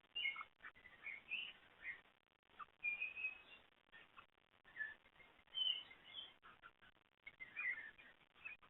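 Several wild birds chirping and calling faintly: scattered short chirps and a few brief whistled notes, overlapping at times.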